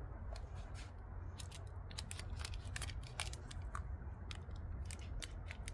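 Crisp crunching of a Dubai chocolate bar being bitten and chewed: an irregular string of sharp little cracks from its crunchy filling, over a steady low rumble.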